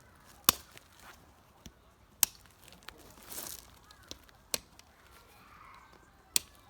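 Four sharp knocks, about two seconds apart, with a brief rustle between the second and third.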